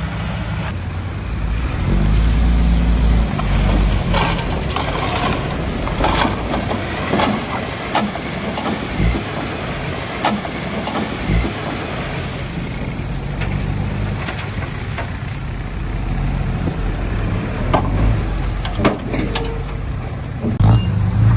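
Heavy diesel earthmoving machinery running, with the engine rumbling and scattered sharp knocks and clatter, densest in the first half.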